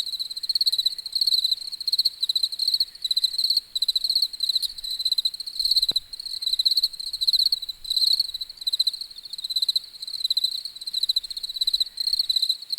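Crickets chirping: high-pitched pulsed chirps repeating in a steady rhythm without a break, with a single faint click about six seconds in.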